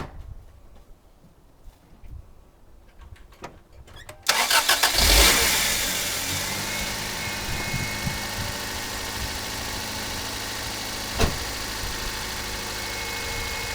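Toyota Corolla four-cylinder engine cranked by the starter about four seconds in, catching at once with a brief surge, then settling into a steady idle after one of its fuel injectors has been reseated. A single sharp knock sounds about eleven seconds in.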